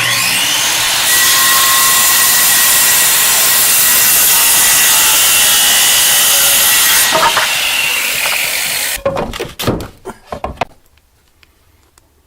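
A power tool cutting into a granite countertop, running steadily with a high whine for about nine seconds before it stops, followed by a few short knocks.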